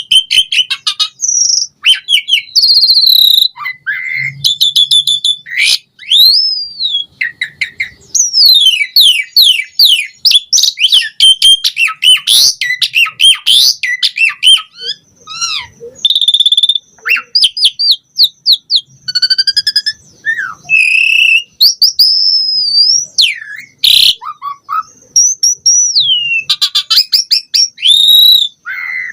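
Asian pied starling (jalak suren) singing vigorously: a long, varied song of loud whistles, sweeping slurred notes and rapid buzzy trills, almost without a break.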